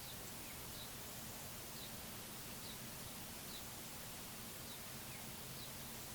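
Faint outdoor ambience with a steady hiss, and a small bird giving short high chip calls about once a second.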